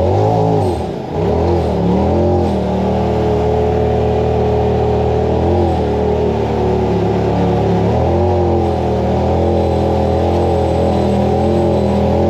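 Polaris RZR Pro XP side-by-side engine running under throttle on a trail, revving up and down. The revs drop briefly about a second in and then climb again.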